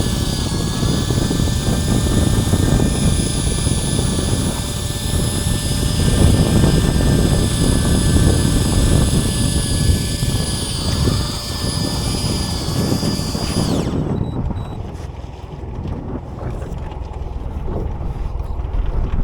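A boat engine running with a steady whine over a low rumble. The whine cuts off abruptly about fourteen seconds in, and the low rumble goes on.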